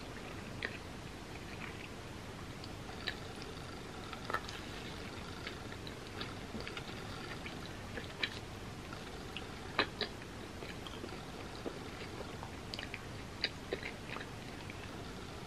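Chewing a grilled cheese sandwich dipped in tomato soup: mouth and chewing sounds with scattered short, sharp clicks, the loudest about ten seconds in.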